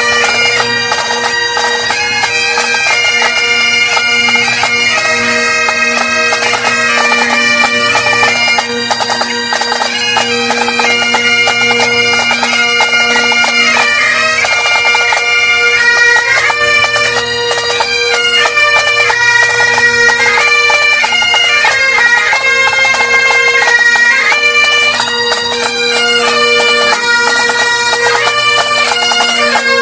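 Great Highland bagpipes played by several pipers. Steady drones sound under a chanter melody that moves quickly from note to note with rapid ornaments.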